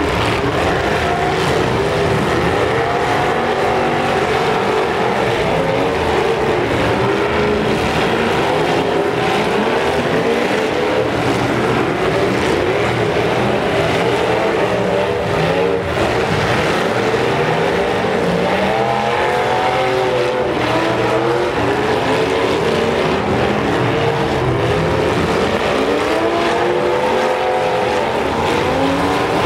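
Demolition derby cars' engines revving hard all at once, many pitches rising and falling over each other without a break.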